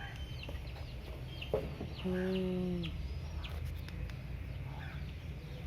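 Birds chirping with many short falling calls, and one drawn-out call of nearly a second about two seconds in, over a steady low hum.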